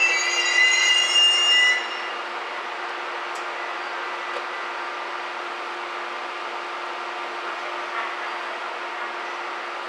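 KiHa E130 diesel railcar squealing for about two seconds as it brakes into the platform, with several high wavering tones that cut off abruptly. After that comes a steady hum as it slows to a stop.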